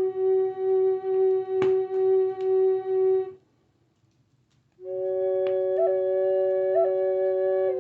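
Native American style flute playing a low held note, pulsed in a steady rhythm about twice a second. It stops for a breath of about a second and a half, then returns with a long held note decorated by two quick upward flicks. Two sharp clicks sound, one early and one midway.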